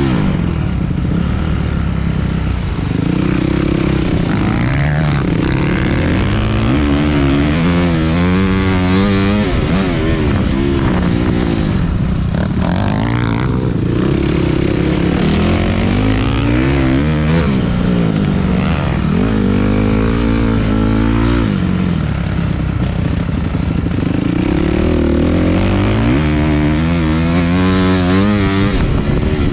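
Dirt bike engine running hard, its pitch climbing and dropping back again and again as the rider accelerates, shifts and rolls off.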